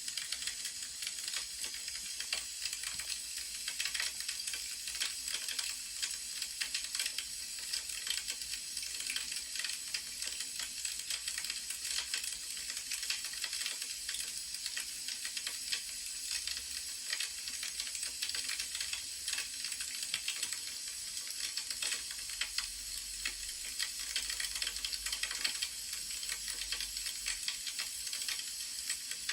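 Wood fire crackling: a steady stream of small irregular pops and snaps over a soft hiss.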